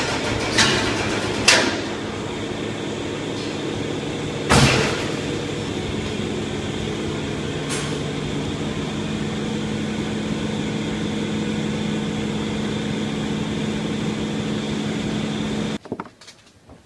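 A machine's motor running steadily with a hum. There are a few sharp knocks in the first five seconds, and it is switched off abruptly near the end.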